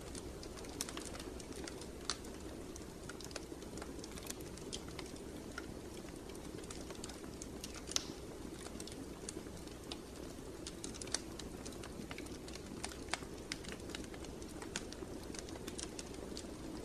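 Wood fire crackling in a fireplace: irregular sharp pops and snaps over a steady low rush of the burning fire.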